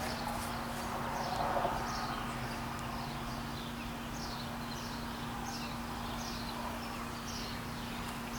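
A songbird repeating a short, high, falling note about every two-thirds of a second, over a steady low hum.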